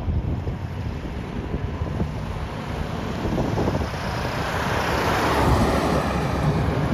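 Car driving, its V8 engine and road noise a steady low rumble, with wind buffeting the microphone; the hiss swells about four to six seconds in.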